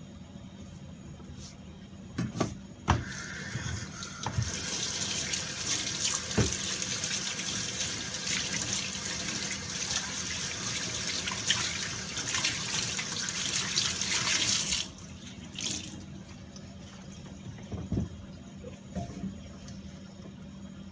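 Water running from a tap into a sink for about ten seconds, then turned off sharply. A few knocks come before it starts, and another near the end.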